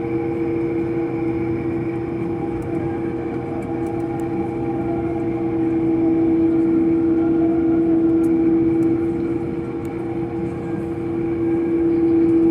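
Jet airliner's engines heard from inside the cabin: a steady whine with a low hum beneath it, growing a little louder about six seconds in.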